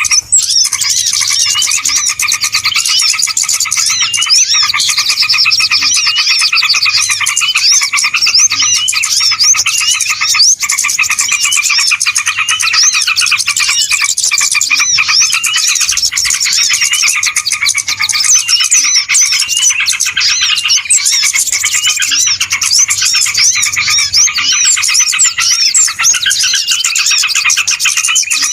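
A loud, continuous chorus of many small birds chirping and twittering over one another in a dense, unbroken mass. This is the kind of noisy lure recording (suara pikat) played to draw wild birds in.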